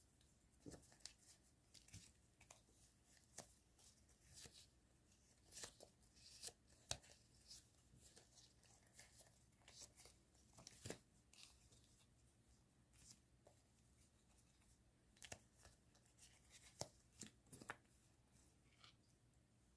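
Quiet handling of paper stationery and plastic packaging: soft rustles, taps and crinkles coming as many short sounds at irregular intervals.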